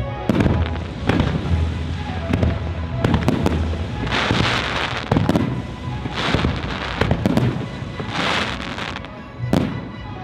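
Aerial fireworks bursting in a rapid series of sharp bangs, over the show's music.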